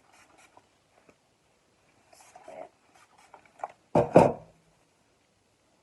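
Light clicks and rustles of a can being handled, then about four seconds in two quick, loud bursts of aerosol shine spray with a deep rumble in them.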